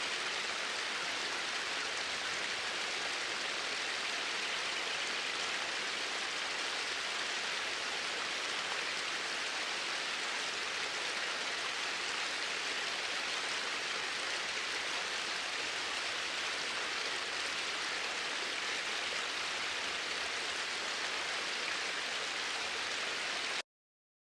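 Steady rush of flowing water, even in level throughout, that cuts off abruptly near the end.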